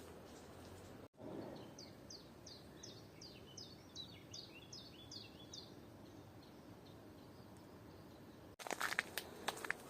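A small songbird sings a fast series of high, falling chirps, about three to four a second, over a steady low hiss of forest ambience. Near the end, footsteps crunch loudly on the forest floor.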